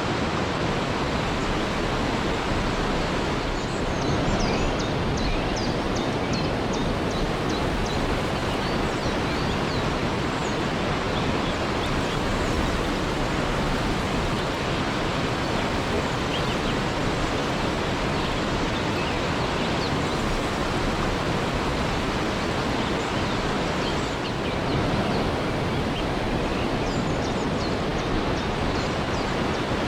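Waterfall rushing steadily. Faint high chirps sound over it a few seconds in and again near the end.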